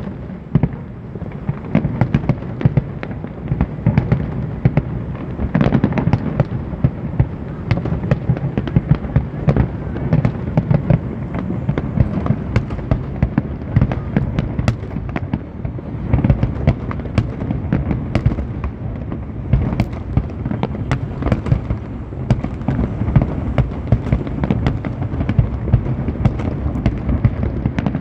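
A large aerial fireworks display going off continuously: a dense, unbroken barrage of shell bursts and sharp crackles over a steady low rumble.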